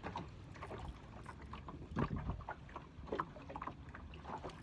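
Calm water lapping and slapping in small, irregular splashes, the loudest about two seconds in.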